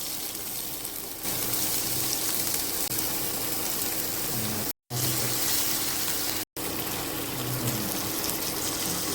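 A steady, watery rushing hiss, broken by two abrupt short gaps about five and six and a half seconds in.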